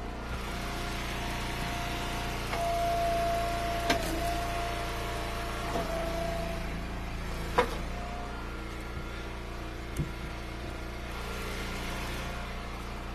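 Engine of a hydraulic log splitter running steadily, with a higher whine from the splitter that strengthens for a few seconds as it works a round. Three sharp knocks of splitting or falling firewood, about 4, 7.5 and 10 seconds in.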